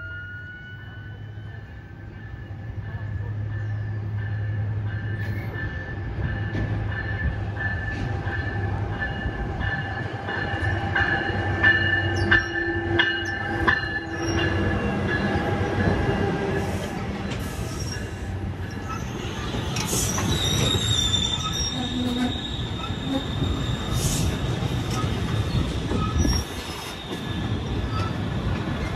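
NJ Transit locomotive-hauled commuter train running into the station past the platform, with a steady low rumble and high steady wheel squeal. A run of sharp wheel clicks over rail joints comes about halfway through, and a higher squeal sets in about two-thirds of the way through as the multilevel coaches roll by.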